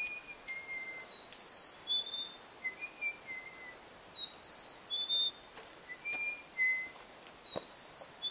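A wild songbird singing clear, short whistled notes, in small groups of higher and lower notes repeated every second or two, with a faint tap or two of footsteps on the trail.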